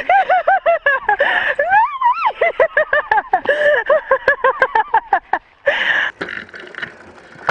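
An agitated bird close by, calling in a rapid series of short high squealing notes, about five or six a second, that stop a little after five seconds in. These are alarm calls from a bird defending its ground against intruders.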